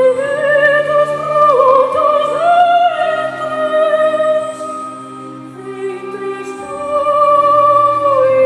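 Operatic singing: a high voice holds long notes with vibrato over a sustained instrumental accompaniment, easing to a quieter passage about halfway through before swelling again.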